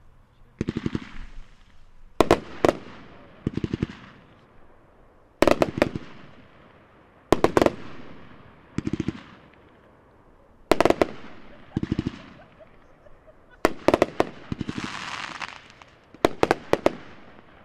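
Dominator "Jacked Up" 500-gram consumer fireworks cake firing: a rapid cluster of sharp shots every second or two, each volley followed by a fading hiss as the shells break and trail off.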